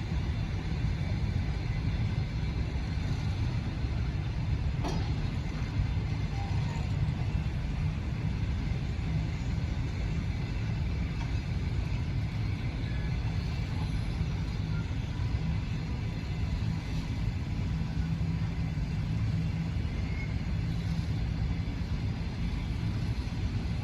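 Passenger train running, a steady low rumble throughout, with one sharp click about five seconds in.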